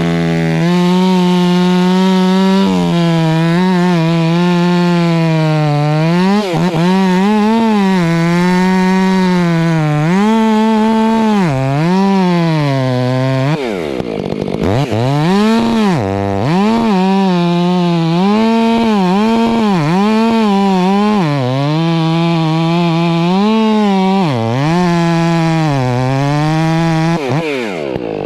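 Gas chainsaw at full throttle cutting into a tree trunk, its pitch sagging and recovering again and again as the chain loads in the wood. About halfway through it briefly drops off and revs back up, and the throttle is released near the end.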